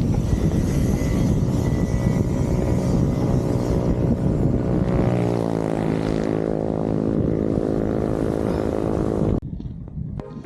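Steady wind rush on the microphone of a moving bicycle, with a passing motor vehicle's engine droning and dropping in pitch about five to seven seconds in. Music starts abruptly near the end.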